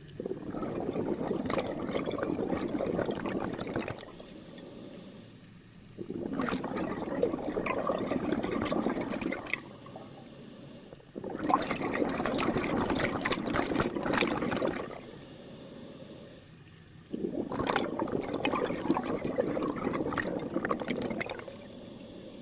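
Scuba diver breathing through a regulator underwater: four long exhalations of rushing, gurgling bubbles, each three to four seconds. Between them, a short, steady hiss of the regulator on each inhalation.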